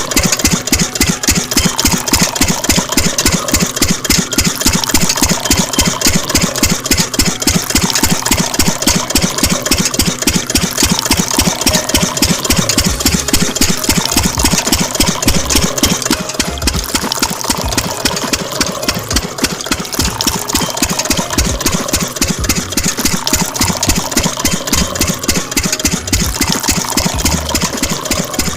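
Diesel engine idling with a steady, rapid knocking beat.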